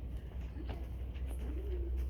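A pigeon cooing: a short low call, then a longer one that rises and levels off near the end, over a steady low hum.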